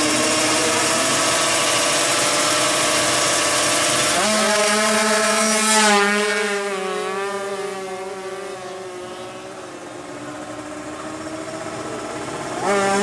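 Two-stroke drag-race motorcycle at full throttle: its engine note comes in suddenly about four seconds in, peaks as it passes at about six seconds, then fades away down the strip.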